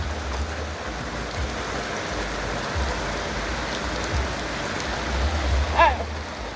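Steady wash of water noise from heavy rain and floodwater running, with a low rumble underneath. A brief voice calls out near the end.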